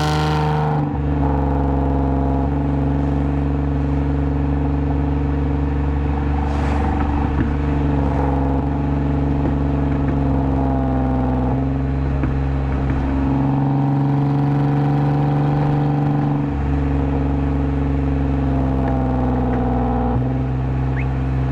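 2010 Lexus IS250 AWD's 2.5-litre V6, with a full aftermarket exhaust and valved mufflers, running at a steady cruise. The engine and exhaust tone holds a nearly constant pitch, with only slight shifts.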